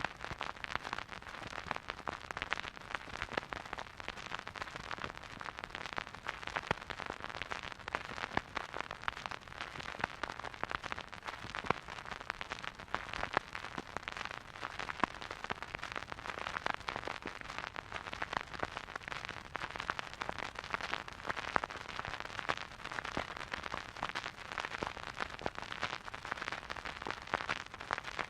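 Vinyl record crackling as the stylus runs in a silent groove: a steady stream of dense small clicks and pops over a soft hiss, with no music.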